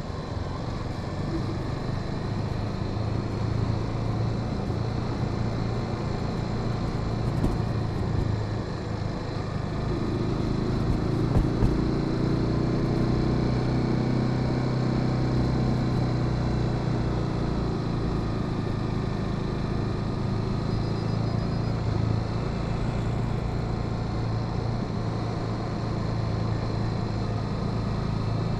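Honda Sahara 300's single-cylinder engine running steadily while riding. About ten seconds in the engine note strengthens for several seconds, then settles back.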